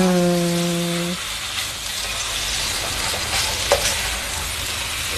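Shrimp, sausage and fish balls sizzling in hot oil as they are stir-fried in a frying pan, with one tap of the spatula on the pan near the middle.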